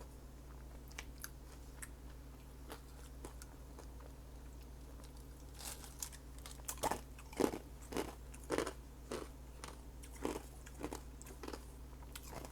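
A person chewing a mouthful of taco close to the microphone: soft wet clicks at first, then a run of crunching chews, about two a second, through the second half.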